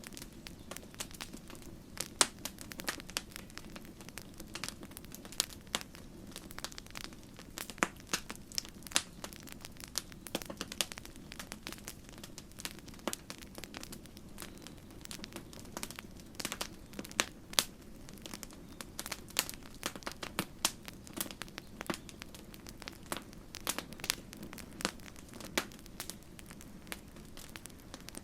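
Wood campfire crackling, with frequent irregular sharp snaps and pops over a steady low rush of the burning fire.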